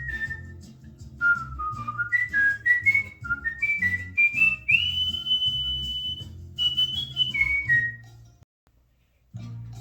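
Cockatiel whistling a tune in clear pure notes over a backing track with a steady bass beat. A run of short notes climbs step by step to a long held high note, then falls away. Whistle and music break off for about a second near the end, then the music comes back.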